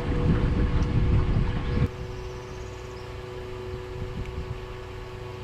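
Steady low hum of a boat motor running, with wind noise on the microphone. The sound drops and changes abruptly about two seconds in, where the video cuts, then a quieter steady hum continues.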